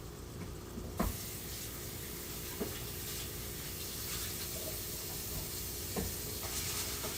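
Ramen stir fry sizzling in a frying pan, the hiss rising about a second in, with a few light clicks from the pan or a utensil.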